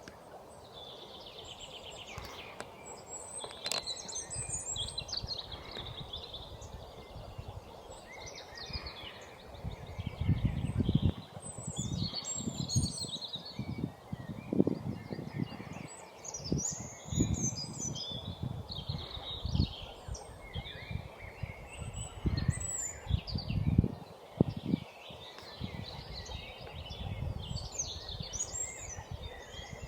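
Small songbirds chirping and singing in a steady chorus of short, high calls and trills. From about ten seconds in, irregular low rumbles come and go underneath.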